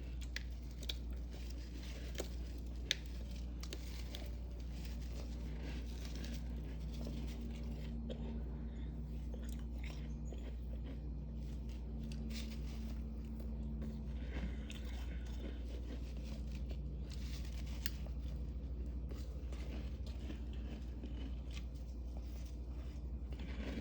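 Crisp freezer frost being bitten and chewed, a continuous run of crunches and crackles over a steady low hum.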